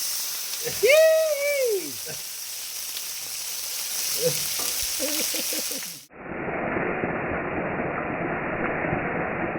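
Fish fillets frying skin side down in a hot pan, a steady sizzle, with a short voice call about a second in and faint voices a few seconds later. About six seconds in the sound cuts abruptly to a duller, muffled steady hiss.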